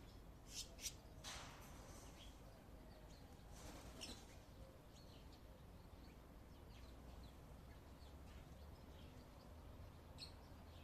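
Faint short chirps and ticks from a Derbyan parakeet while it feeds, with a few sharper ones about a second in and one near four seconds, over near-silent room tone.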